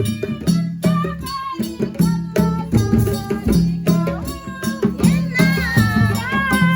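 Traditional folk music: drums played in a steady rhythm under singing voices, with a rattle in among the percussion.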